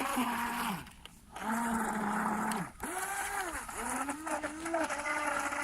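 Electric motor of an FT010 RC speedboat whining in repeated throttle bursts, its pitch rising, holding and dropping away several times, while the boat is caught in a clump of grass.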